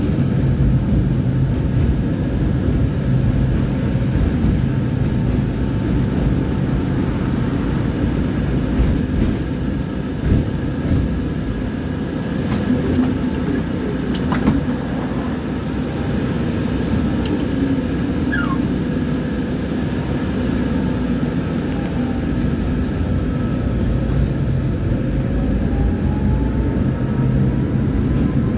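Tram running along its track: a steady low rumble of wheels and running gear, with a faint motor whine that rises in pitch near the end and a few sharp clicks and knocks about halfway through.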